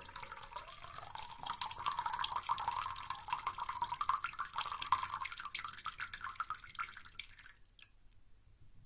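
Carbonated bath bomb fizzing in bath water: a dense crackle of tiny bubbles popping, dying away and stopping about three-quarters of the way through.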